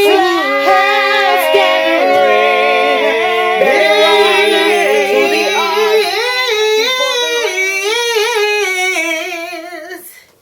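A woman singing a gospel song in long, drawn-out notes with a wavering vibrato and no clear words, fading out near the end.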